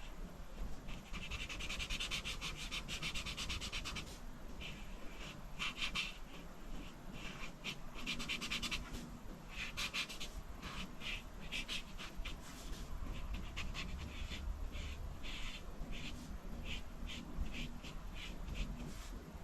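Coloring strokes on paper: a drawing tool scratching back and forth quickly, in stretches of rapid strokes broken by short pauses.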